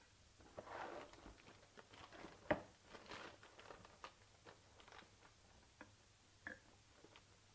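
Quiet rustling and light clicks of small objects being handled, with one sharper knock about two and a half seconds in.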